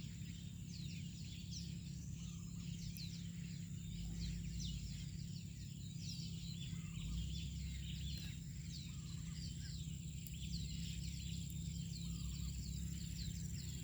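Birds chirping in the background: many short, quick, falling chirps, over a steady low hum of outdoor noise and a thin, steady high whine.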